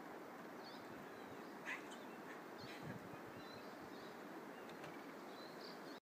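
Faint outdoor quiet with a soft steady hiss and a few short, high bird chirps scattered through, plus one brief faint knock a little under two seconds in.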